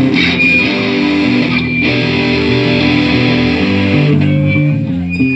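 Punk band's electric guitars and bass playing a loud riff at soundcheck. The notes change in steps, and a thin high steady tone comes in near the end.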